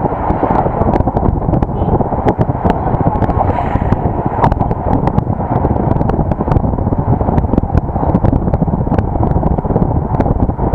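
Wind buffeting the microphone of an action camera on a vehicle moving at speed, a steady loud rumble mixed with road and engine noise, with frequent small clicks and knocks.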